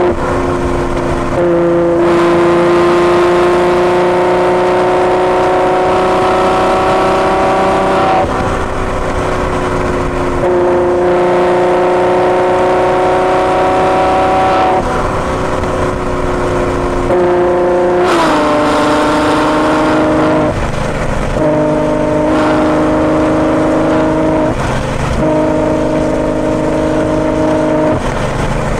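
Ferrari GTC4Lusso's engine running through a Capristo aftermarket exhaust on the move, its note climbing steadily under acceleration and dropping sharply at gear changes every few seconds.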